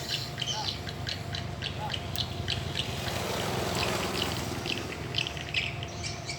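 Small birds chirping repeatedly over a steady low engine hum, with a brief rush of noise about halfway through.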